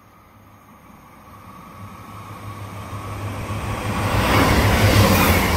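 Northern Rail diesel multiple unit approaching and passing through the station at speed. Its engine drone and the rush of wheels on rail grow steadily louder, reach a peak near the end as it goes by, then drop suddenly.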